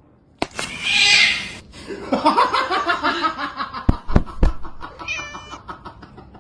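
Domestic cat meowing repeatedly, with three dull thumps about four seconds in.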